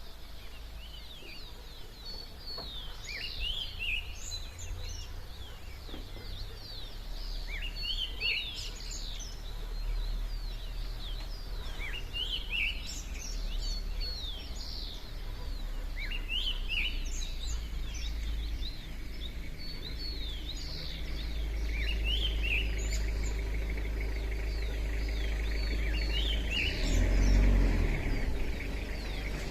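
Dawn chorus of several songbirds: many quick, overlapping chirps and twitters throughout. A steady low rumble runs underneath and swells briefly near the end.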